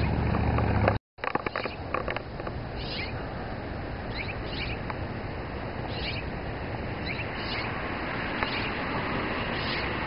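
A bird calling in short, high, slightly falling notes, single or in pairs, repeated every second or so. A low rumble fills the first second and cuts off abruptly.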